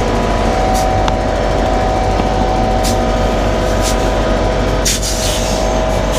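Semi truck's diesel engine running steadily with a steady whine, as the truck backs up, with a few brief hisses about one, three, four and five seconds in.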